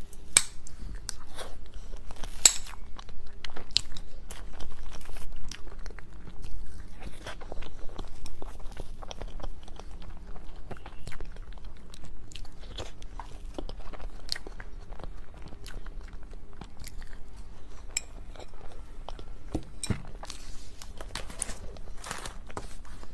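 Close-miked chewing and biting of mille crepe cake: a steady run of small, irregular wet smacks and clicks of the mouth.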